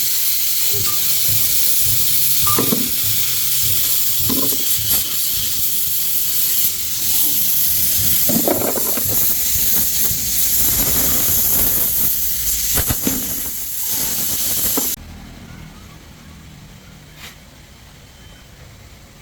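A loud, steady hiss of a jet of air or spray, with a few short knocks along the way, cutting off suddenly about fifteen seconds in.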